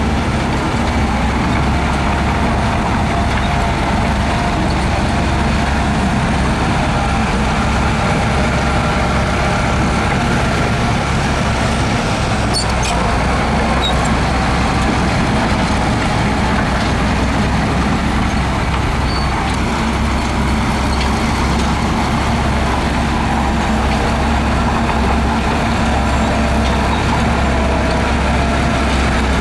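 Heavy earthmoving machinery's diesel engine running steadily under load, with a few faint clicks about halfway through.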